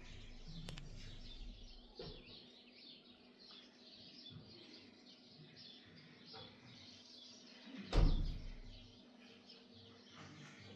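Birds chirping over and over, faint, with a single sharp thump about eight seconds in.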